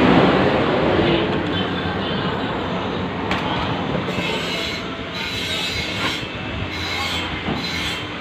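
Electric jigsaw running steadily, cutting through plywood, with a harsher high-pitched edge to the noise that comes and goes in the second half.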